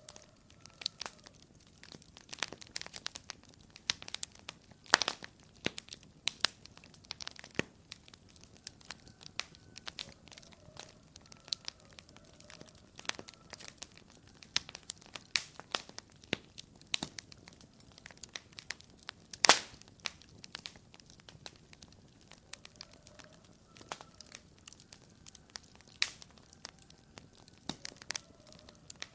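Wood fire crackling in a fireplace: irregular sharp snaps and pops over a quiet background, with a few louder pops, the loudest about 19 seconds in.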